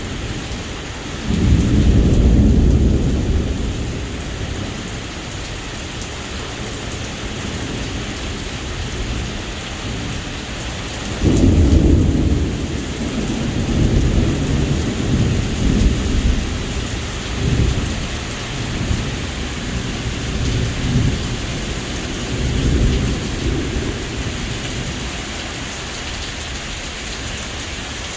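Heavy rain falling steadily, with two long rolls of thunder: one begins about a second in and rumbles for a few seconds, and a second begins about eleven seconds in and rolls on in waves for more than ten seconds.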